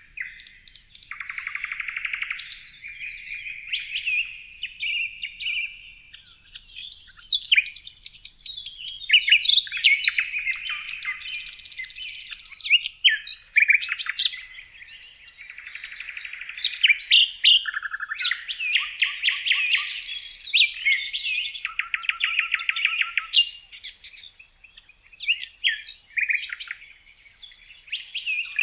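Several songbirds singing and chirping at once: a dense run of overlapping trills, rapid chirps and short whistles with hardly a pause.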